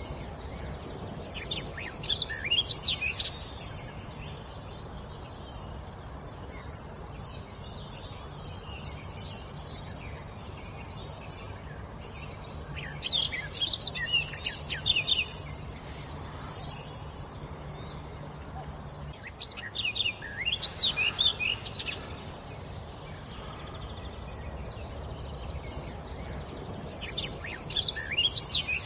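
A wild songbird singing four short phrases of quick, high notes, spaced several seconds apart, over a steady low background hum.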